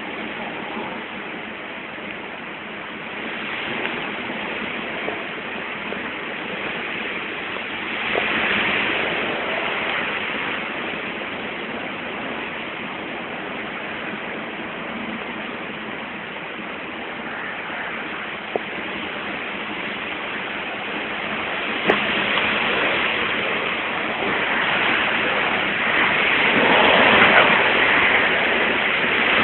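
Heavy rain pouring down during a storm as a steady rushing hiss, swelling louder about a quarter of the way in and again near the end, with a couple of sharp taps.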